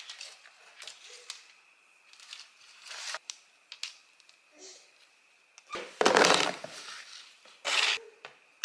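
Paper crinkling and tearing: light scattered handling clicks, then two loud rustling tears about six seconds in and near the end.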